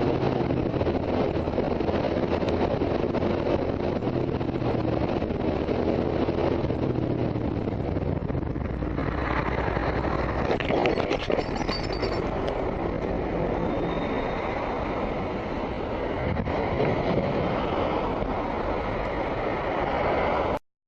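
Steady engine and road noise of a moving vehicle, changing character about halfway through with a few clicks, then cutting off suddenly near the end.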